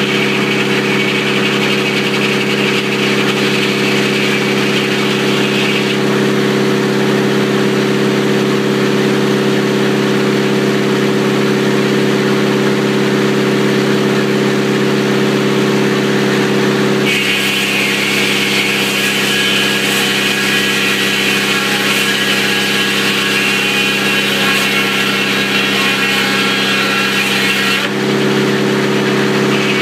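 Sawmill's engine running at a steady speed while its saw cuts through a telephone pole. A harsher high hiss rides over the engine for the first six seconds and again for about ten seconds from just past halfway.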